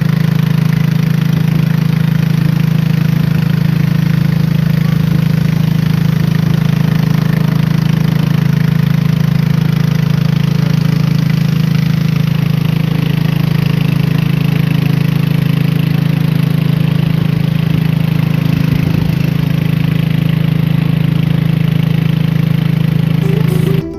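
A steady, loud, low engine-like drone, like a small motor running, which cuts off abruptly near the end.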